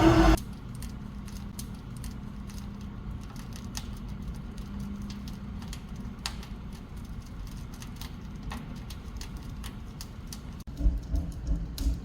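Wood fire crackling inside a large downdraft wood-burning stove: irregular sharp pops over a low steady hum. Near the end, a louder pulsing low rumble sets in.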